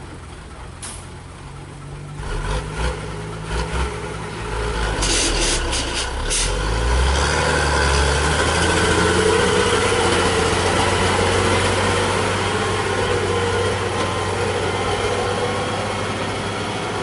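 Heavily loaded coal truck's engine running under load on a climb, getting louder over the first several seconds and then holding a steady low drone. A few short, sharp sounds come about five to six seconds in.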